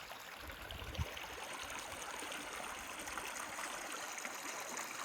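Gorge creek water flowing steadily over rocks, a continuous trickling rush. A brief low thump about a second in.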